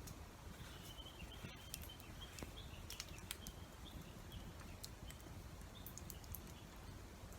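Faint, sparse sharp crackles and pops from a small wood campfire over a steady low wash of rain. A faint thin high tone comes and goes between about one and three and a half seconds in.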